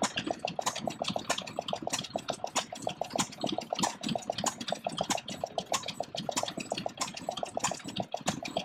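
Vintage stationary engine running, its exhaust giving a steady train of sharp beats, several a second.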